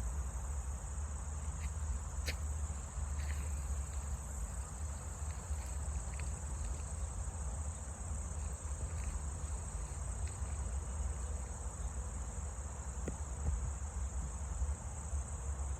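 Steady, high-pitched outdoor insect chorus, over a continuous low rumble.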